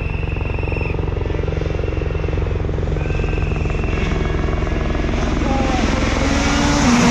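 Helicopter rotor chop, steady and rhythmic throughout. Over the last two seconds a rally car's engine note comes in, rising and stepping up in pitch as it approaches, and is loudest at the very end.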